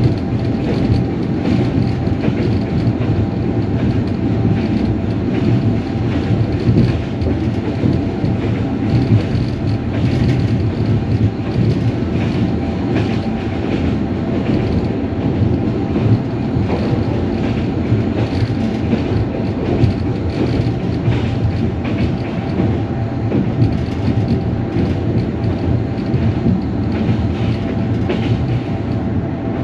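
Sleeper train running at speed, heard from inside the passenger carriage: a steady low rumble with irregular clicks of the wheels over the rail joints.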